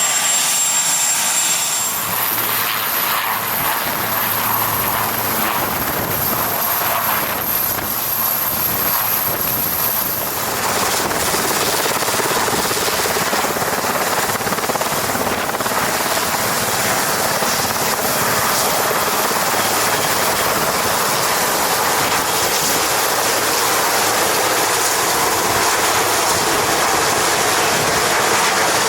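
Marine One helicopter running close by: a loud, steady rush of rotor and engine noise with downwash buffeting the microphone.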